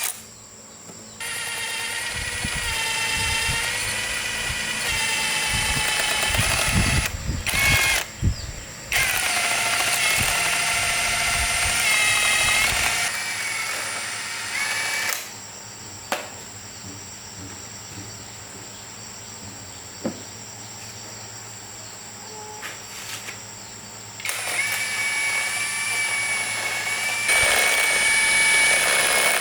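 Handheld electric power tool whining as it works on metal, run in several bursts: from about a second in to about seven seconds, again for a few seconds after that, then a quieter stretch, then a long run near the end. Its pitch wavers as the load changes.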